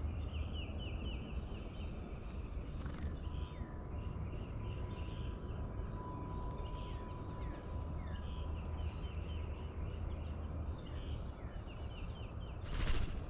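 Birds chirping in repeated quick series of short calls over a steady low outdoor rumble. A faint steady tone holds through the middle, and a brief loud rustle comes near the end.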